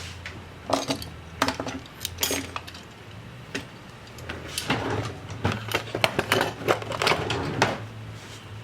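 Small metal tools and laptop parts clinking and clattering on a workbench during hands-on repair, in two bursts of irregular clicks, over a low hum.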